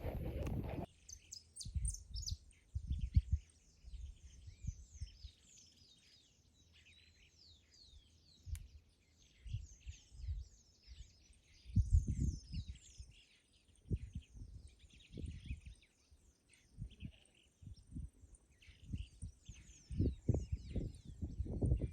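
Many small birds chirping with quick, descending chirps throughout, over scattered low thumps that come and go and are the loudest sounds.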